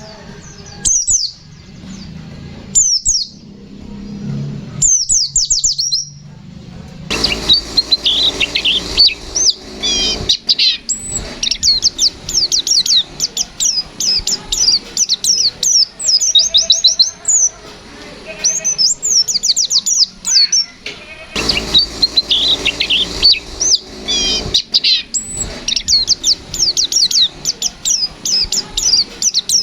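White-eye (pleci) song: rapid, high, chirping runs of short notes. A few separate calls at first, then about seven seconds in a dense, fast stream of sharp chirps, the 'nembak' shooting song of a birdsong master track.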